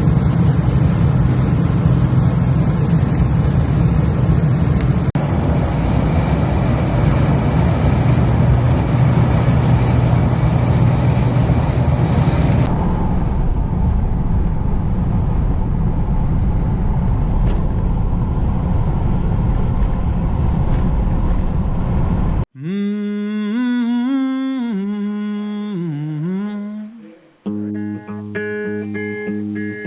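A 4x4 driving, with steady engine and road noise over a low drone; the higher hiss drops away about halfway through. It cuts off suddenly and a voice hums a sliding melody, then a guitar song with evenly repeated notes starts near the end.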